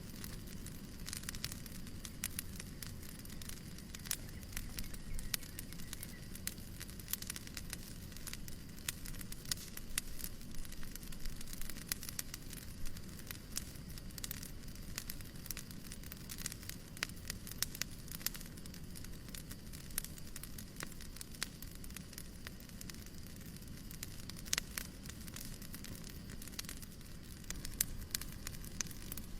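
Wood fire in a fireplace crackling: a steady stream of small irregular pops and snaps over the low rumble of the flames.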